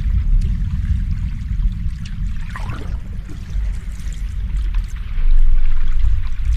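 Ocean waves washing on the shore, a deep steady rumble with a hissing wash on top, swelling louder about five seconds in.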